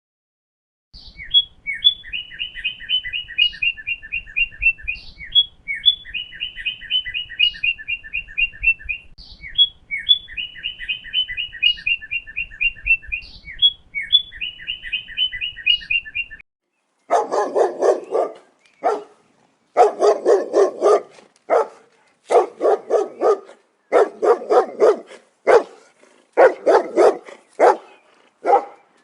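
A songbird singing the same rapid trilled phrase four times over. About seventeen seconds in, a dog starts barking in quick runs of barks.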